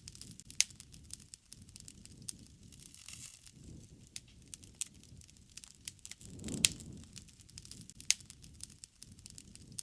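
Wood fire crackling, with irregular sharp pops of burning wood and a soft low rush of flame that swells about two-thirds of the way through, where the loudest pop comes.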